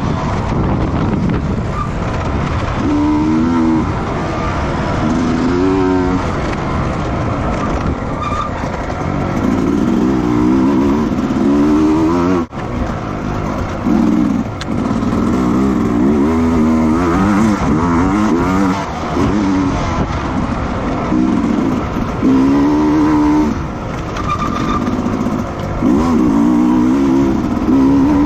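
Racing motorcycle engines on a track, repeatedly revving up and dropping as the bikes shift gears and pass by.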